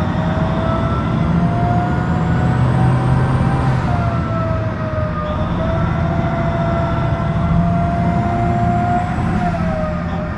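Heavy mining dump truck's diesel engine running under load, a low rumble with a whine that slowly climbs and then drops back, twice.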